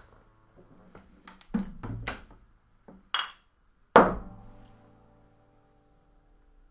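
Guitars strumming the song's closing chords. A few strokes come in quick succession, then a last, loudest chord about four seconds in rings out and fades away.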